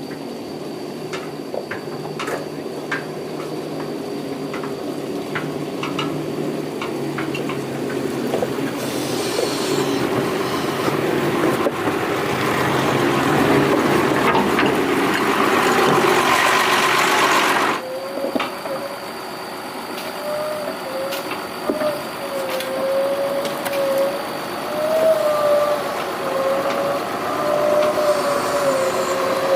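Doosan 140 excavator working, its engine and hydraulics under load, with scattered knocks in the first seconds. The sound grows louder and harsher for several seconds and cuts off sharply about eighteen seconds in, then settles to a lower run with a wavering whine.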